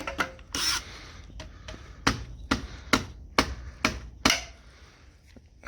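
A series of sharp knocks: a few scattered ones, then about five evenly spaced at roughly two a second.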